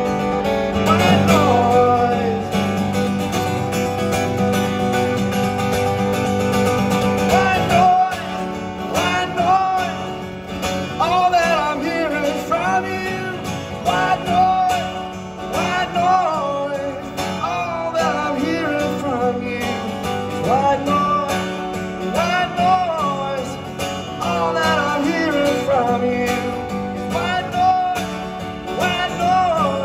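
Live acoustic rendition of a rock song: strummed acoustic guitar with a singing voice weaving over it. A low held chord fades out about eight seconds in.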